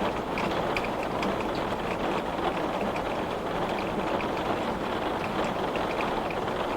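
Heavy rain beating steadily on a glass window, a dense even hiss with many small sharp drop ticks.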